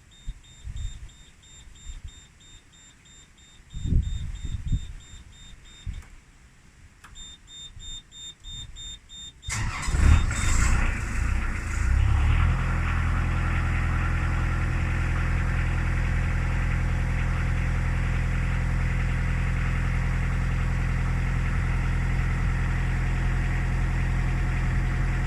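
Narrowboat diesel engine cold-started: a high, pulsing beep from the control panel sounds for about nine seconds. The engine then cranks and catches at about ten seconds, and from about twelve seconds in it settles into a steady idle. It starts despite its recent trouble with air in the fuel.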